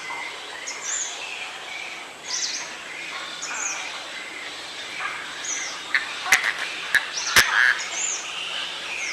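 Birds calling outdoors: a short, high chirp that slides downward repeats every second or two over a background chatter of other bird calls. A few sharp clicks stand out in the second half.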